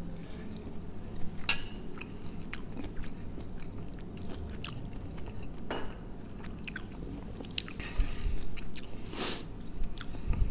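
A man chewing a mouthful of salad close to the microphone: iceberg lettuce and pickled cucumber giving scattered soft crunches and wet mouth clicks.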